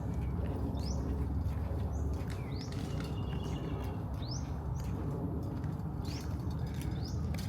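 A bird repeatedly calling short, sharp upward-sweeping chirps, about one every second or two, over a steady low rumble.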